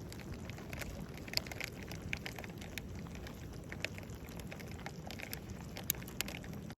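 Wood campfire crackling: irregular sharp pops and snaps over a steady low rush. It cuts off suddenly near the end.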